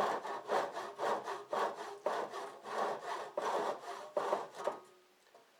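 Handsaw cutting through the end of a garage door, steady back-and-forth strokes at about two a second that stop near the end.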